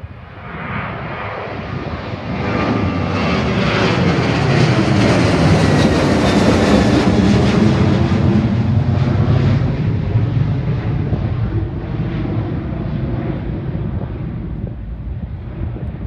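Jet airliner's engines going by, a loud rumble and roar that swells over several seconds, peaks mid-way, then slowly fades.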